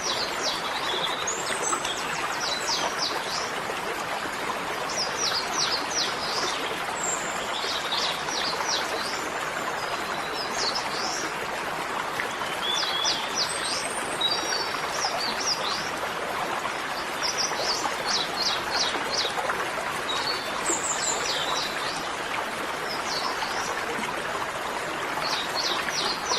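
Small birds chirping in short bursts of quick high notes every couple of seconds over a steady rush of flowing water.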